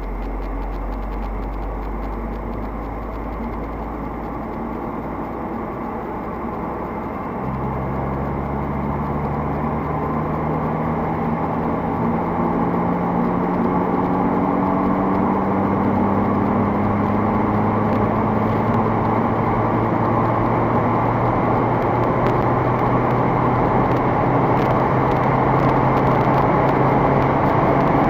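Audi RS3's 2.5 TFSI five-cylinder engine pulling hard at speed, with wind and tyre noise. The engine note steps up about seven seconds in and then climbs slowly while the overall noise keeps growing louder.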